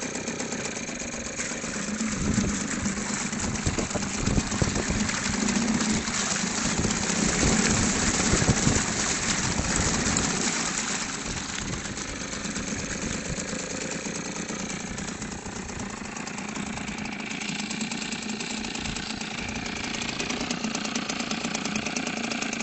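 Golfstream T 2.5 BMS small two-stroke outboard motor running in a test barrel of water. It runs louder and rougher from about two seconds in until about eleven seconds, then settles to a steadier, quieter idle.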